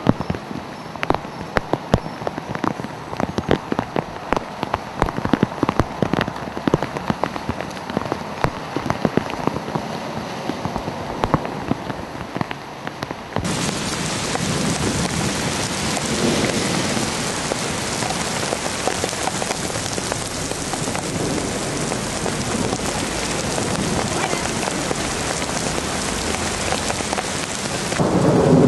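Rain falling on pavement. For the first half many close drops tap sharply over a hiss of rain. Then an abrupt change to a steady, heavier downpour hiss, which grows louder near the end.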